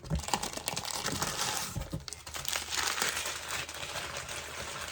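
Packing wrap crinkling and rustling as wrapped stones are unpacked by hand, with scattered light clicks and knocks.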